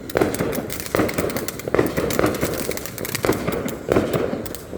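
Consumer fireworks going off close by: a steady run of sharp crackling pops, with louder bangs about once a second.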